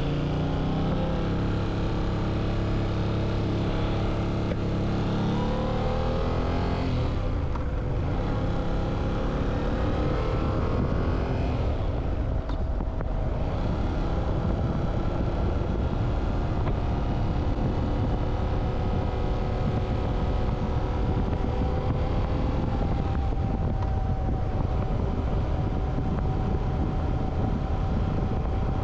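Motorcycle engine running under way. Its pitch climbs, drops sharply about seven seconds in as it shifts up, climbs again, drops once more around twelve seconds, and then holds at a steady cruise.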